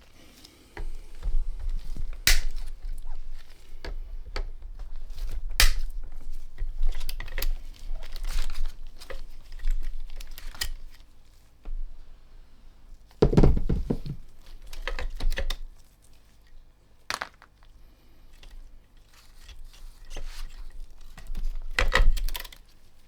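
Handling noises on a workbench: irregular clicks, knocks and rustling as the receiver and tools are handled, with a louder run of knocks about two thirds of the way through and another near the end.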